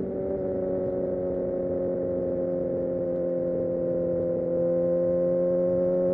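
Kawasaki Ninja ZX-6R's inline-four engine and exhaust running under way at fairly steady revs, the pitch easing slightly and then starting to climb near the end as the throttle opens.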